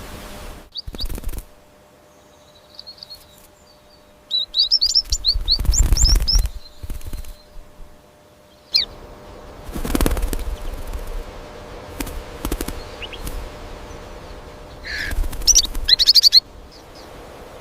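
A small bird chirping in short high runs, with bursts of wing flapping in between.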